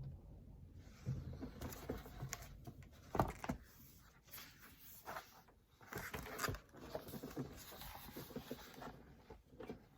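Faint, irregular rustling and a few light taps, like a picture book's pages being handled.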